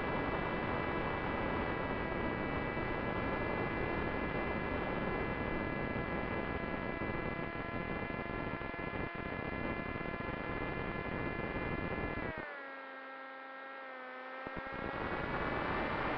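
Whine of an FPV aircraft's electric motor and propeller over rushing wind noise, picked up on board. About two-thirds of the way through, the whine drops in pitch and the wind noise falls away for a couple of seconds as the throttle is eased off, then both climb back.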